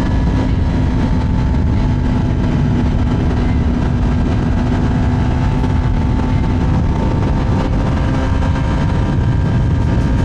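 Kawasaki ZX10R's inline-four engine running at a steady cruise, its drone holding one pitch, under heavy wind rush on the microphone.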